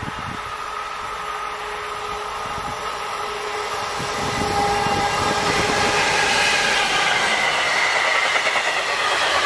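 MRCE class 185 electric locomotive hauling a train of wagons loaded with lorry semi-trailers, approaching and passing at speed. The sound swells about four seconds in, then holds as a steady rush of wheels and wagons going by.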